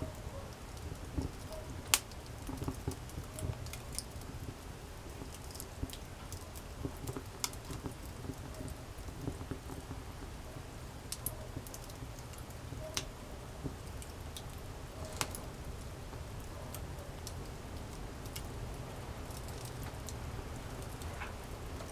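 Wood campfire crackling: scattered sharp pops and snaps, the loudest about two seconds in, over a low steady rumble of the burning fire.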